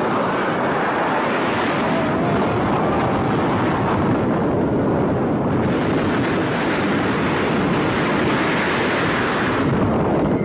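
Loud, steady rushing noise that does not let up.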